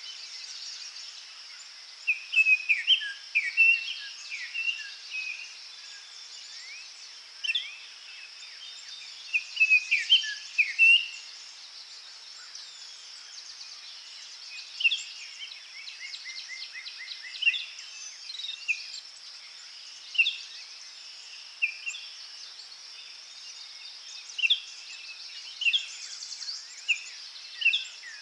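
Several forest birds singing: short chirps and whistled phrases come again and again, with a quick descending trill about halfway through. Under them runs a steady high-pitched hum.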